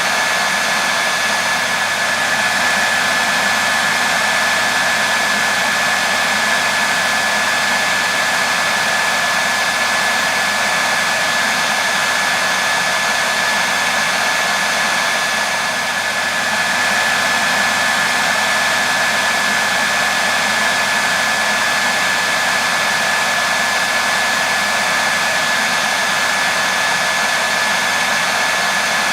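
Hair dryer running continuously: a steady rush of air with a constant high whine from the motor.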